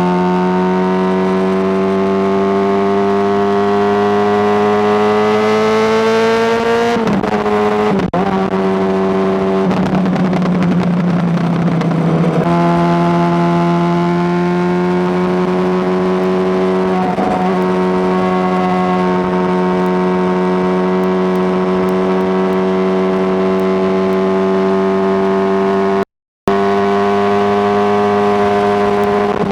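Honda CBR600RR's inline-four engine pulling under way, its pitch rising slowly for about seven seconds before a shift. For a few seconds the tone turns rougher and noisier, then it settles into a steady cruise, with a brief cut-out in the sound near the end.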